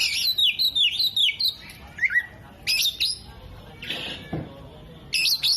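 Oriental magpie-robin singing: a quick run of loud descending whistled notes in the first second and a half, then scattered short chirps and squeaky phrases.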